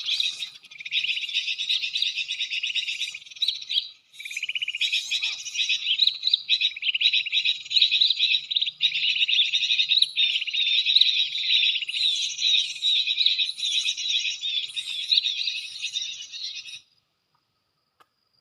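Gelatik batu (cinereous tit) calls: dense, rapid, high chirping with a short break about four seconds in, cutting off suddenly near the end.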